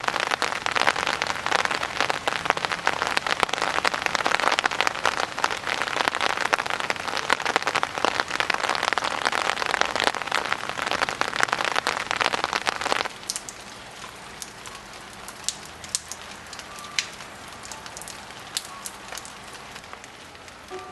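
Rain falling hard as a dense, steady patter, then about two-thirds of the way through it cuts suddenly to lighter rain with single drops ticking one by one.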